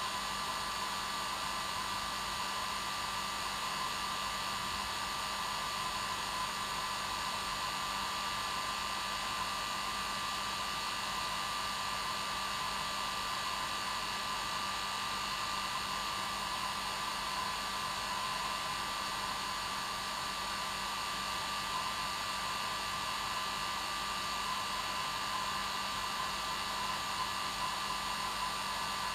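Hair dryer running steadily on its normal setting: a continuous airy rush with a steady whine and a low hum.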